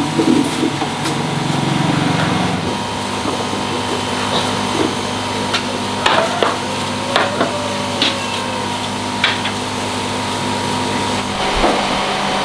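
A steady machine hum with several fixed tones that cuts off about eleven seconds in, with scattered sharp clicks and knocks over it.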